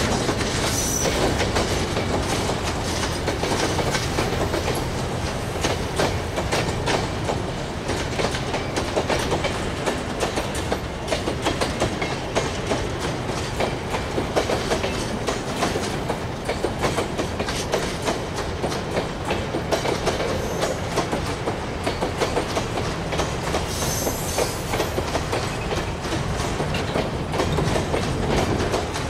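Freight train of boxcars and grain hopper cars rolling past on broad-gauge track: a steady rumble with a continuous rapid clatter of wheels over the rail joints.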